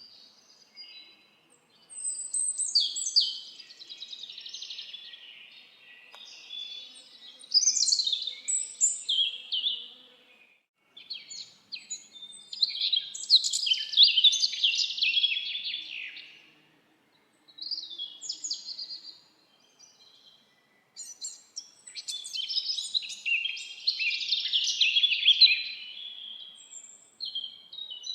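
Songbirds singing in a forest: five phrases of rapid song, each a few seconds long, separated by short pauses.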